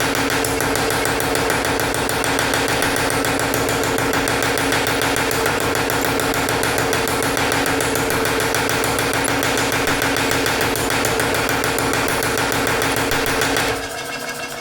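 Mechanical power hammer running, hitting hot iron with rapid, steady blows while its motor drones; drawing out stock. The hammering stops suddenly near the end.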